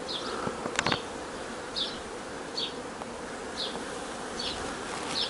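Honeybees buzzing steadily around an open hive, with a few clicks about a second in and short high chirps repeating about once a second.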